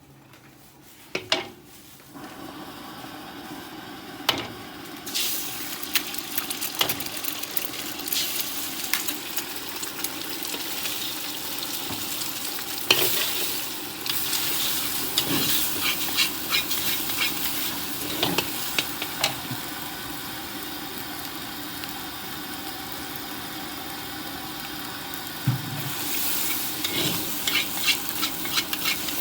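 Nasi goreng frying in a wok: a steady sizzle while a metal spatula stirs and scrapes the rice, with many quick clanks of metal on metal. The sizzle swells about five seconds in.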